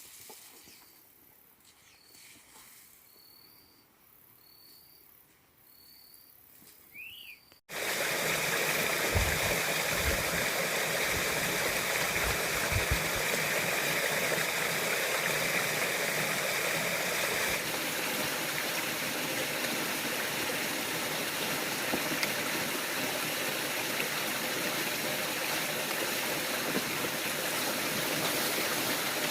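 A bird gives a short high note about five times, with one quick rising-and-falling chirp, against faint surroundings. About eight seconds in, the sound cuts suddenly to the loud, steady rush of a stream.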